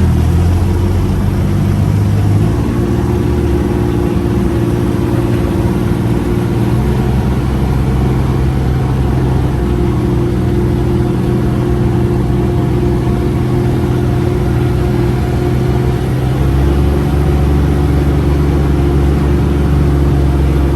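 UTV engine running under way, its revs rising about two and a half seconds in and easing back near the end. The heavy four-seater is slow to pick up speed, which the driver puts down to a delayed gas pedal.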